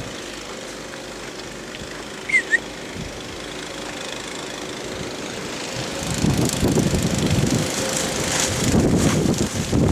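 Wind buffeting the microphone in a snowstorm, growing louder and gusting from about six seconds in, over a steady low hum. Two short high chirps come about two seconds in.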